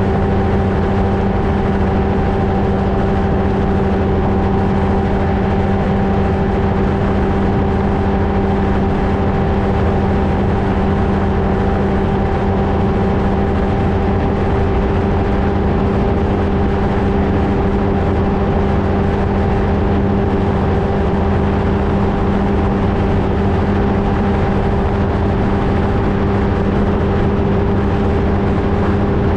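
Flightstar II ultralight's engine and propeller running steadily at a constant pitch, with no change in power.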